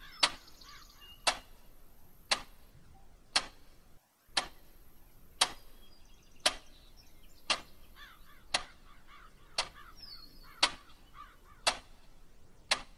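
Clock ticking slowly, one sharp tick about every second, over faint bird calls.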